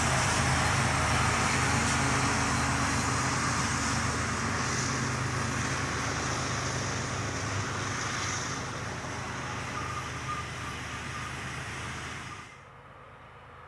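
Freight train with diesel locomotives running on the grade, a steady engine sound under loud rail and wheel noise, slowly fading. It cuts off suddenly near the end, leaving a much quieter background.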